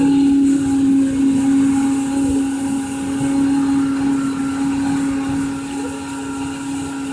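Electric motor running steadily with a constant hum.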